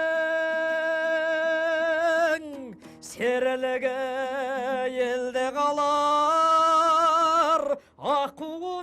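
A male singer holds long, drawn-out notes of a Kazakh folk song with a slow vibrato, in the style kept by the Kazakhs of Mongolia. The song breaks off briefly twice, a little over two seconds in and near the end.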